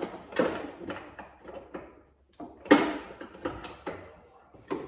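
Knocks and rattles of tools and parts being handled during car repair work, loudest in a single sharp knock about two and a half seconds in and another near the end.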